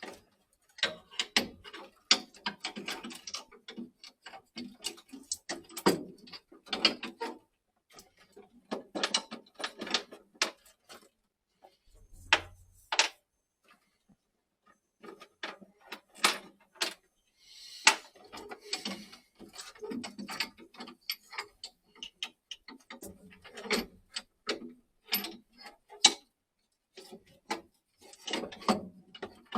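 Hand work on the inside of a gas boiler as a replacement hydraulic block is fitted: irregular clicks, taps and knocks of parts and tools, in clusters with short pauses, and a brief hiss about two thirds of the way through.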